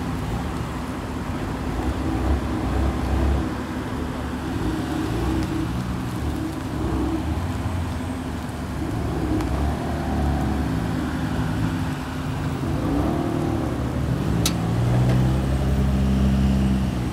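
BMW M4 and 4 Series cars driving slowly past one after another, their engines and exhausts running at low revs. The engine note grows louder near the end as one car comes close.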